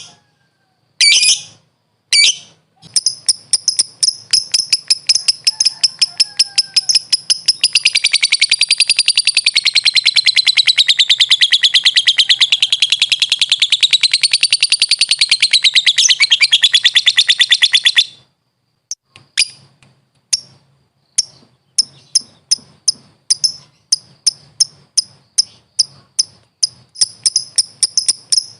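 Lovebird (Agapornis) song: a few shrill calls, then rapid repeated notes that run into a long, fast, unbroken chatter wavering up and down in pitch, the drawn-out song keepers call ngekek. The chatter cuts off about two-thirds of the way in, and sparser quick ticking notes follow.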